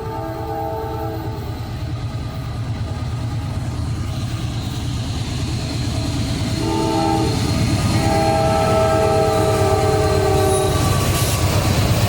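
Two Norfolk Southern diesel locomotives approaching a grade crossing, sounding a multi-chime air horn: one blast ends about a second in, and a longer blast runs from about seven to eleven seconds, over the engines' low rumble that grows steadily louder as they near.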